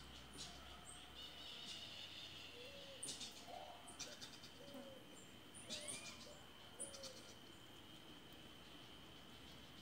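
Faint bird calls: a series of short, low, arched notes about once a second, with a few brief high chirps, over a faint steady high-pitched tone.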